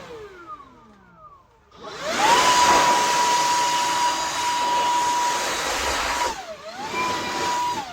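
Electric blower blasting dust off a bathroom exhaust fan's parts. Its motor whine winds down at the start, spins up to a steady pitch about two seconds in, dips and comes back near the end, then winds down as it is released.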